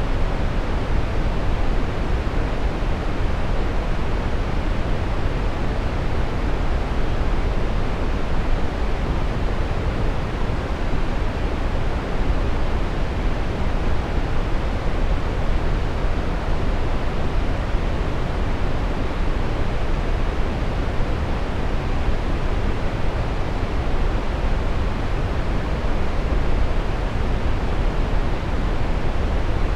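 Steady brown noise: an even, unchanging rush of synthetic noise, heaviest in the low end and thinning out toward the highs.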